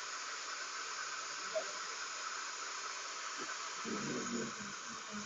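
Steady hiss, with a faint low murmur about four seconds in.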